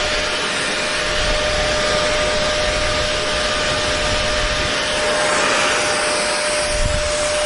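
Hair dryer running steadily: a constant rush of blown air with a steady hum in it.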